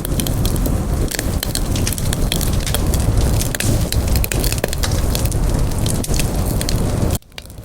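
Campfire burning, with dense crackling and popping over a steady low rush of the flames. The sound drops out suddenly near the end and comes back.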